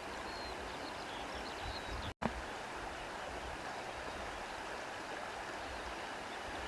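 Steady rush of a flowing stream, with a few faint high chirps. The sound cuts out for an instant about two seconds in and comes back with a click.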